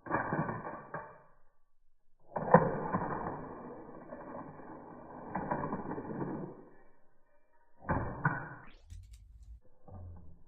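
Die-cast toy cars rolling and rattling along plastic track with sharp knocks, in several runs, the longest lasting about four seconds.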